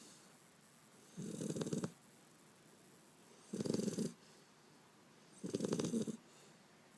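Beagle puppy snoring loudly in its sleep: three snores, each under a second long, about two seconds apart.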